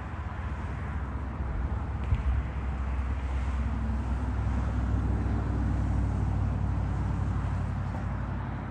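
Diesel engine of an Amtrak P42DC locomotive droning low and steady as the train approaches, swelling over the first few seconds and then easing slightly, with a single sharp click about two seconds in.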